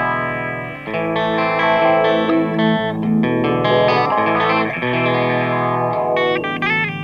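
Clean electric guitar, a Schecter C1 Classic on its bridge pickup, played through the Line 6 M13's Sweep Echo delay into a small tube amp: ringing chords and single notes with echoing repeats. A new chord is struck about a second in, and near the end the notes waver in pitch.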